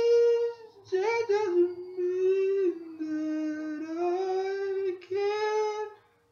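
A high voice singing a short wordless tune: a long held note, then a gap and a string of sustained notes that slide up and down between pitches, ending about six seconds in.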